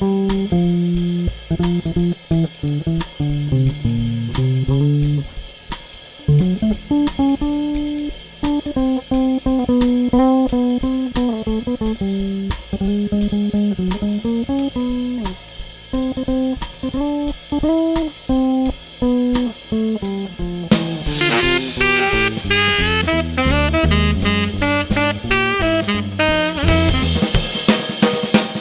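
A small jazz group playing a swing tune. A plucked single-note solo line runs over steady cymbal time. About three-quarters of the way through, a low walking line and brighter, denser notes join in.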